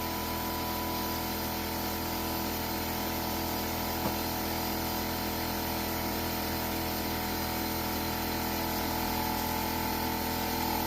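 Steady machine hum made of several even tones, with one sharp click about four seconds in.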